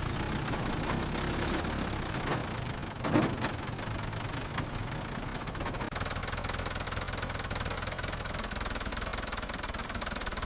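Small motor boat engine running steadily, with one short, sharper sound about three seconds in.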